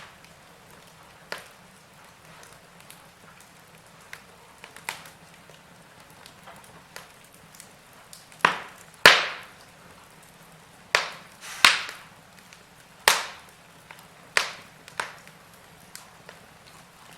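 Wood fire crackling, with sharp pops at irregular intervals over a soft hiss. The loudest pops come a little past the middle.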